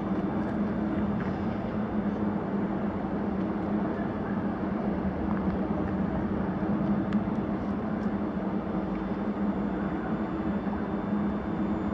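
ScotRail passenger train at the station platform, a steady rumble with a constant low hum.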